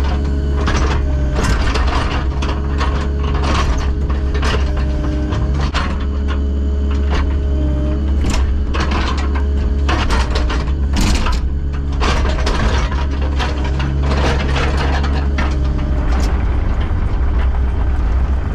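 Diesel construction machine running steadily, with a whine that rises and falls as its hydraulics work and frequent metallic clanks and knocks from the machine working.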